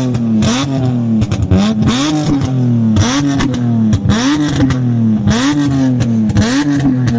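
A car engine revved in a rapid, even series of throttle blips, nearly two a second, its pitch rising and dropping back each time.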